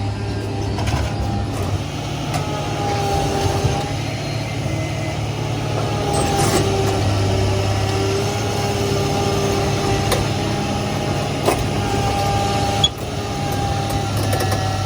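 A vehicle engine idling steadily, with a few sharp clicks in the last few seconds.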